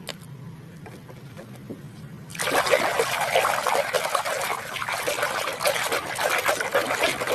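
Running water splashing over a muddy toy as it is washed clean. It starts about two and a half seconds in, after a quiet stretch.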